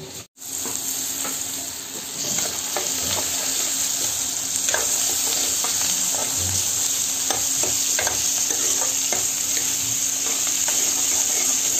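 Sliced onions and green peas sizzling in oil in a kadai, stirred with a steel ladle that scrapes and clinks against the pan again and again; the peas are well roasted.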